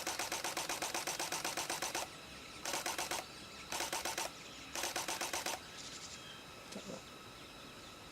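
Camera shutter firing in rapid continuous bursts, about eight frames a second: one burst of about two seconds, then three shorter ones.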